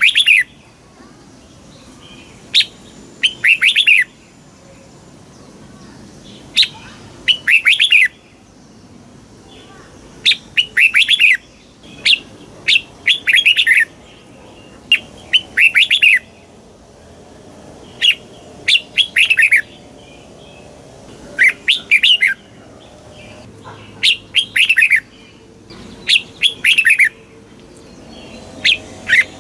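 Red-whiskered bulbul singing: short phrases of several quick, bright whistled notes, repeated every two to three seconds. It is the song played to caged bulbuls to excite them or teach them to sing.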